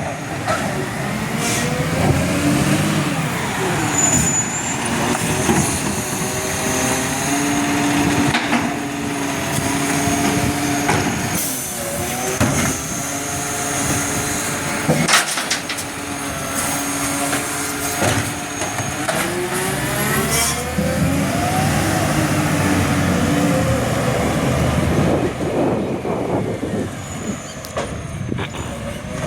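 Garbage truck at work: its engine revs up and falls back again and again, with clanks and knocks and a brief hiss of air brakes.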